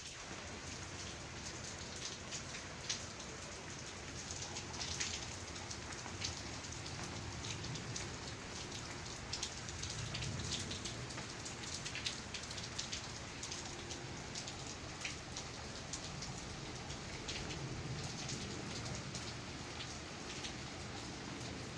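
Steady rain falling, with a dense patter of drops hitting surfaces and the occasional sharper drip.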